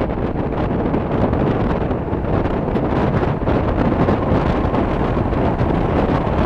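Steady rush of air and running noise of a moving electric commuter train, heard at its window, with wind buffeting the microphone.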